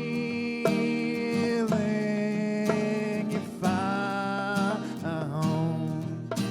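Acoustic guitar strummed under long held sung notes, from a singer-songwriter's song.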